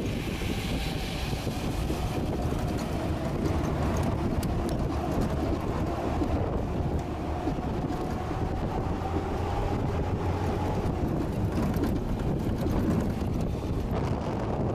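Heavy logging truck's engine running steadily under load, a low rumble with a faint wavering whine above it, and some wind on the microphone.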